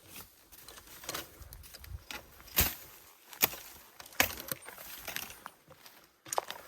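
Dry twigs and forest-floor litter snapping and crunching, with a few sharp cracks of breaking wood about a second apart over a rustling crackle.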